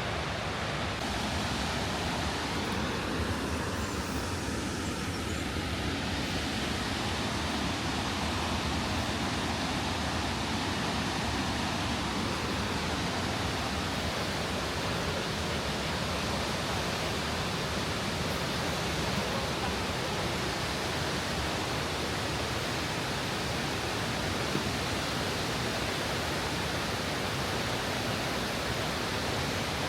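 Steady rushing of fast-flowing water on the River Tees, an even noise that holds at the same level throughout.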